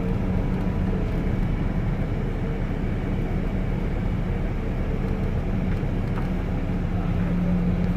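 Steady rumble of a running vehicle, with a constant low hum and no change in level.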